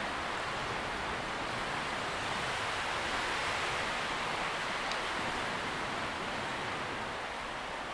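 Wind rustling through tree leaves, a steady even hiss that swells slightly midway and eases a little near the end.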